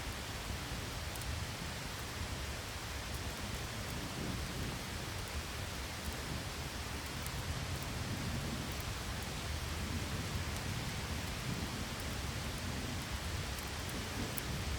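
Steady heavy rain with a low rumble of thunder that swells and fades in waves, and a few faint light ticks.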